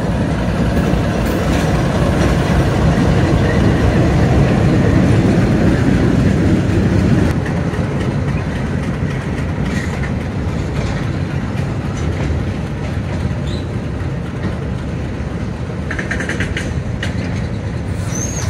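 Freight train passing close by: the diesel locomotive's engine rumbles loudly as it goes past during the first several seconds, then the wagons roll by with wheels clattering over the rail joints. A brief metallic squeal near the end.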